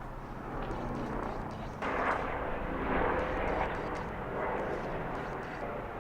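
Steady vehicle engine and road noise, growing louder about two seconds in.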